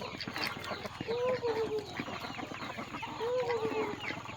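Chickens clucking, with a drawn-out arched call heard twice about two seconds apart over a scatter of short, higher chirps.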